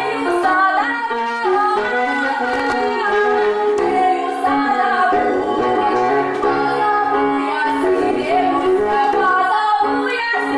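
A woman singing a melody with instrumental accompaniment, in an experimental folk-jazz style.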